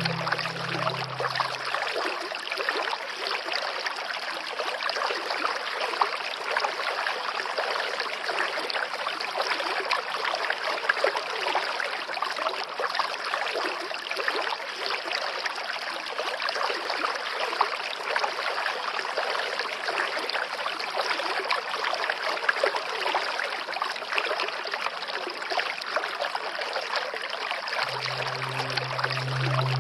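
Steady running water, a continuous trickling flow. A soft held music tone fades out about two seconds in and comes back near the end.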